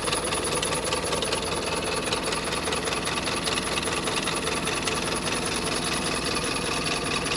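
Tata LPT 1109 truck's diesel engine idling with a steady, rapid clatter.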